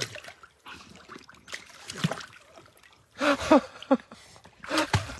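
A domestic cat giving a few short meows, a cluster about three seconds in and another near the end, among small clicks and taps.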